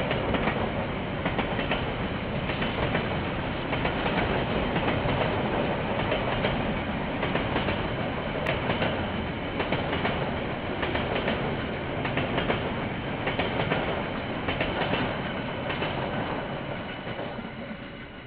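KiwiRail train rolling past, its wagon wheels clicking over the rail joints in an uneven patter over a steady rumble, fading away near the end. Heard through a security camera's microphone, which cuts off the higher sounds.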